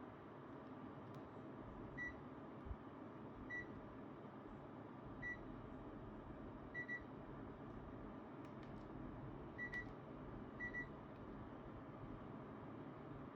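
Short high electronic beeps from an air conditioner's controls: three single beeps, then three quick double beeps, as settings are changed. A steady, quiet fan hum runs underneath.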